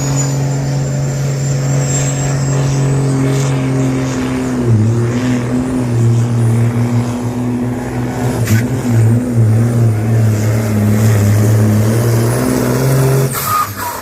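Supersport pulling truck's diesel engine running hard under full load during a pull, with a high turbo whistle slowly rising above it. About a third of the way in, the engine note drops and wavers as the truck bogs down, and it cuts off shortly before the end.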